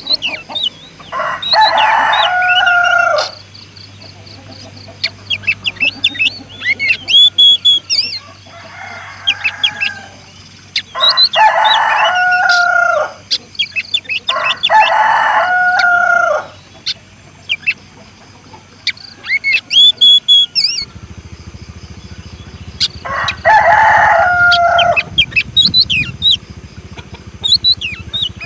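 Rooster crowing repeatedly: four loud, drawn-out crows of about two seconds each and a fainter one, each crow ending in a strained 'uueek'. Short high bird chirps in between.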